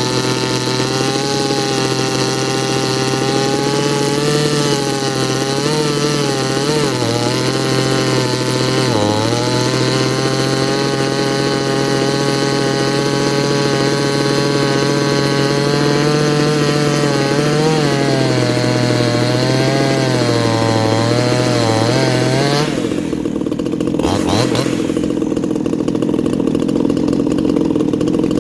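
58cc Chinese two-stroke chainsaw running, its carburettor set slightly rich, with the engine speed wavering up and down. About five seconds from the end the engine note changes suddenly, leaving a duller, lower running sound.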